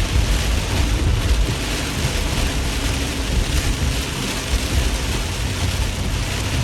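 Heavy rain and tyre spray heard from inside a car driving on a flooded highway in a storm: a steady hiss over a low rumble.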